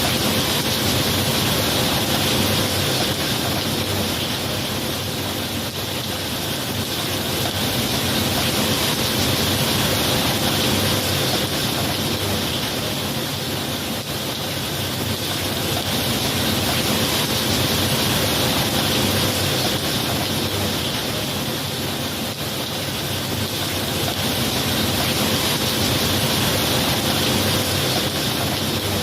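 Steady heavy rain, an even hiss that slowly swells and eases every several seconds.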